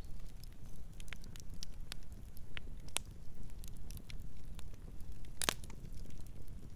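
Wood fire crackling: irregular sharp pops and snaps over a steady low rumble, with one louder pop about five and a half seconds in.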